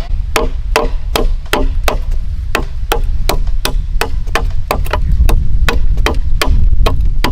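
A hand tool striking over and over in a fast, even rhythm, about two and a half sharp knocks a second, over a steady low rumble.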